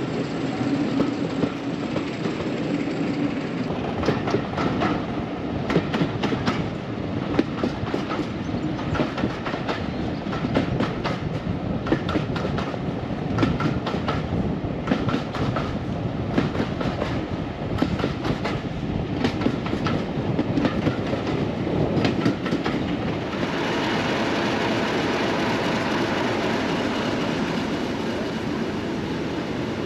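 Heritage train running along the line, heard from an open carriage window: the coach wheels click and clack over the rail joints in an uneven run over a steady rumble. About 23 seconds in this gives way to a steady rushing noise.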